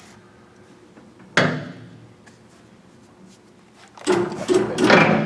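Engine lathe running with a faint steady hum at high spindle speed, cut by a sharp metallic clunk about a second and a half in and a louder clattering stretch near the end.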